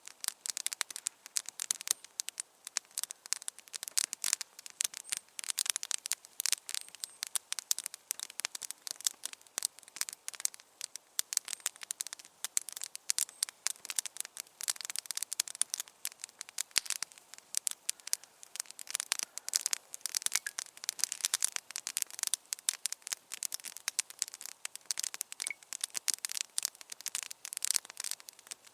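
Campfire crackling: a dense, irregular stream of sharp little pops and crackles.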